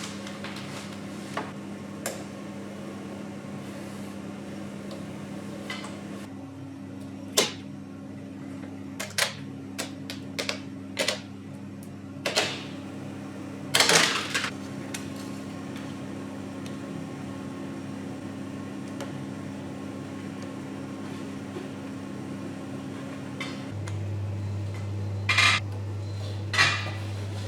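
Scattered metal clinks and knocks of parts and hand tools being handled during reassembly of a pocket bike, over a steady low hum that drops to a lower, louder hum near the end.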